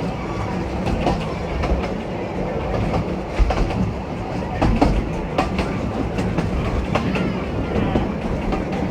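Narrow-gauge train running along the track: a steady rumble with irregular clicks and knocks of the wheels over the rail joints.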